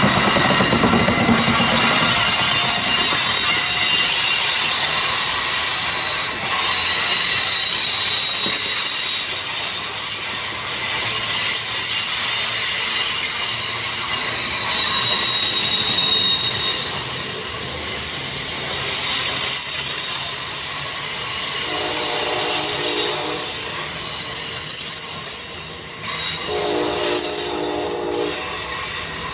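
Amtrak passenger coaches rolling past behind an ACS-64 electric locomotive, the steel wheels squealing in thin high tones over a steady rumble of the train on the rails. Late on, two long blasts of a train horn sound, each about a second and a half.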